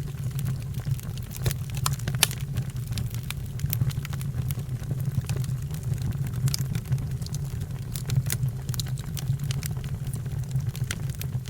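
Wood fire burning, with a steady low rumble under frequent irregular crackles and sharp pops.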